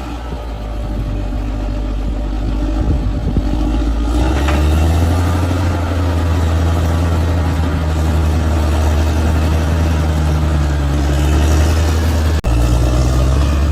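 Large bulldozer's diesel engine running with a deep, steady drone that grows louder and steps up in pitch about four seconds in, with a brief break near the end.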